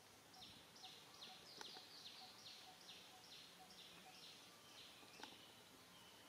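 Faint bird call: a run of about a dozen short notes, each sliding downward, repeated two or three times a second, with a couple of faint clicks in the middle and near the end.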